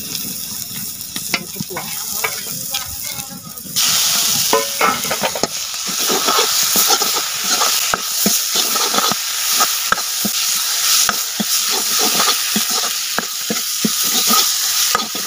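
Neem-leaf paste and spice masala frying in mustard oil in a kadai, stirred with a steel ladle: the ladle scrapes and clinks against the pan over the sizzle. The sizzle grows much louder about four seconds in.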